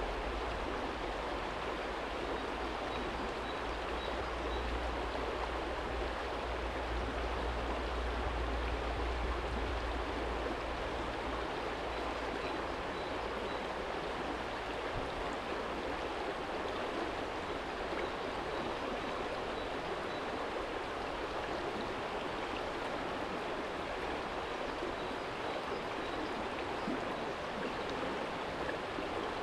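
Small shallow stream flowing steadily over a stony bed, a continuous even rush of water. A low rumble sits underneath for the first ten seconds or so, then fades.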